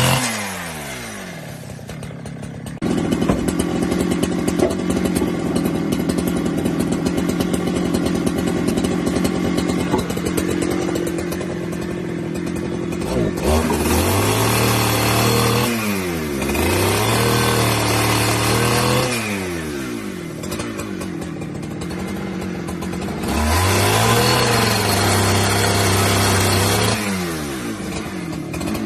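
Small engine running: its pitch drops at the start, holds steady for about ten seconds, then revs up and down again and again, a swing every two to three seconds.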